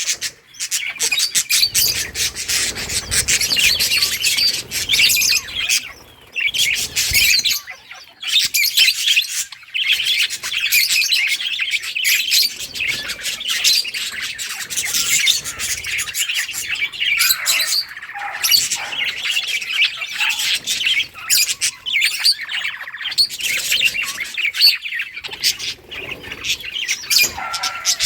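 A flock of budgerigars chirping and chattering continuously, many birds calling at once in quick overlapping tweets.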